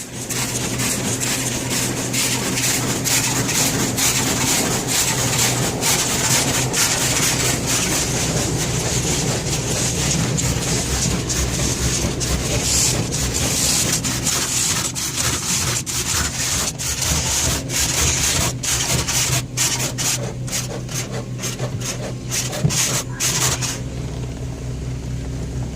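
Automatic car wash spraying the car during the wax cycle, heard from inside the cabin: a loud, steady hiss of spray drumming on the body, flickering rapidly in its second half. The car's idling engine hums under it, and the spray cuts off near the end, leaving the hum.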